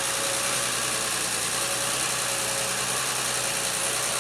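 CAT 320B excavator's diesel engine running steadily, with a faint steady whine above the engine note.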